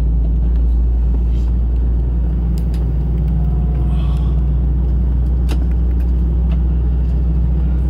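Steady low rumble and hum inside an Airbus A320 cabin during pushback, with the number 2 engine starting up. A few faint clicks sound over it, one clearer about five and a half seconds in.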